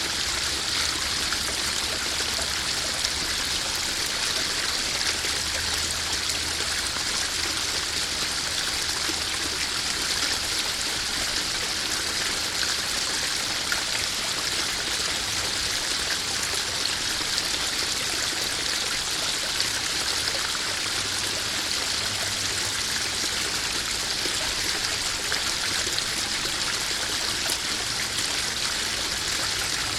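Water from a small garden koi-pond waterfall splashing and trickling steadily into the pond.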